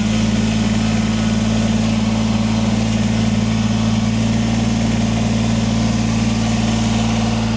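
Kubota BX23S compact tractor's three-cylinder diesel engine running steadily at a constant speed.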